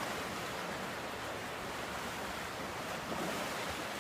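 Waves washing steadily on a lake shore, an even wash of noise with wind.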